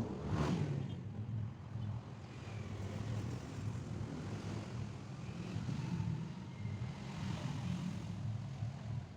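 A steady low mechanical hum, like a running engine.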